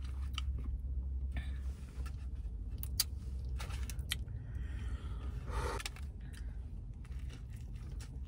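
Close-miked chewing of a burger with scattered wet mouth clicks, over a steady low hum. A short muffled voiced sound comes about five and a half seconds in, and another bite into the burger comes near the end.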